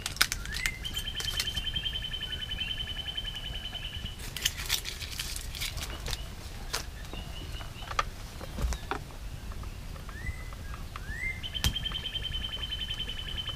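A bird sings twice: a short rising note, then a long, even trill lasting about three seconds, once about a second in and again near the end. Scattered sharp clicks come in between.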